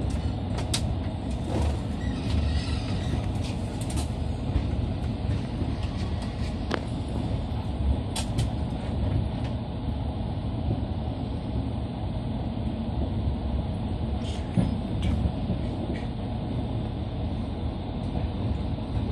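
Passenger train coach running through a station, heard from on board: a steady low rumble of wheels on rails, with occasional sharp clicks and knocks at irregular intervals.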